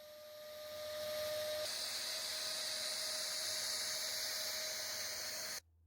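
Fireplace ash vacuum running and sucking, a steady whooshing hiss that builds over the first second. A faint whine is heard through the first couple of seconds. It cuts off abruptly near the end.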